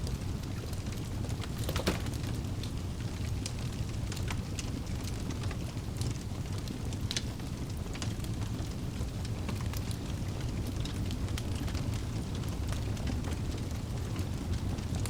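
Wood fire burning in a fireplace: a steady low rumble of the flames with scattered sharp crackles and pops from the logs, one louder pop about two seconds in.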